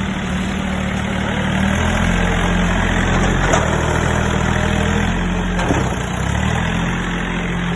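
John Deere tractor engine running steadily at low speed, its pitch shifting a few times.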